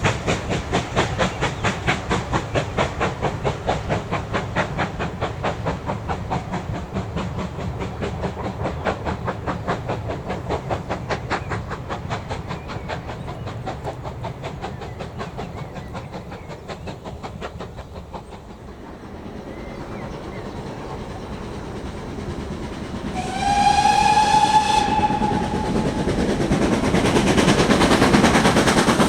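Steam engine exhaust chuffing in a fast, regular beat that fades away over the first eighteen seconds or so. About two-thirds of the way through, a steam whistle sounds once for about a second and a half, and then a loud rushing noise of steam rises.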